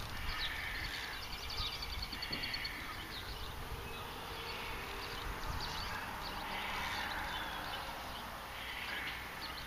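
Songbirds singing in the trees: repeated short chirps and a rapid trill, over a steady low rumble.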